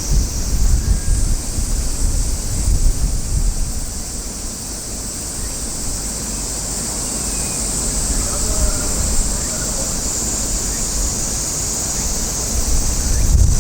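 Wind buffeting the microphone in uneven gusts, strongest in the first few seconds and again near the end, over a steady high hiss.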